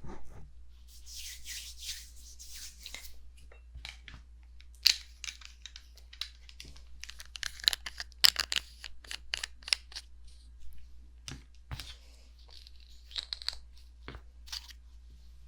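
Fingertips tapping and rubbing on the silicone ears of a 3Dio binaural microphone: a stretch of rubbing about a second in, then many quick, irregular taps and short scratches close to the mic.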